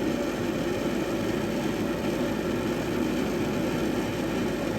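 Gas furnace draft inducer motor running with a steady, even whir. The inducer is failing and sounds as if it is about to come right off, so it needs replacing.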